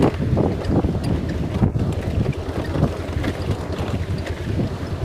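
Bajaj Pulsar 220F motorcycle being ridden along a rough, rocky dirt trail, buried under a heavy, uneven wind rumble on the microphone.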